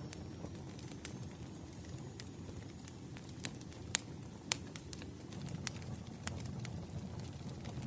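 Wood fire crackling: irregular sharp pops and snaps over a low steady rumble of the burning logs, the loudest pops about four and four and a half seconds in.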